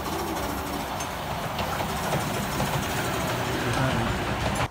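Miniature-railway coaches on 10¼ inch gauge track rolling past close by: a steady rumble of wheels on rail with a few light clicks.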